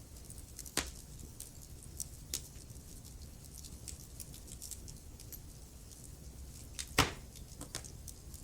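Wood fire burning in a fireplace: a steady low rumble of flames with scattered crackles and sharp pops from the burning logs, the loudest pop about seven seconds in and another just under a second in.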